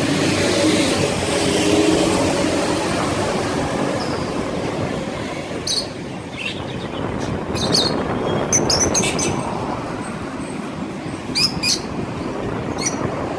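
Street traffic noise with a vehicle passing early on, then repeated short, high chirps of small caged birds from about halfway through.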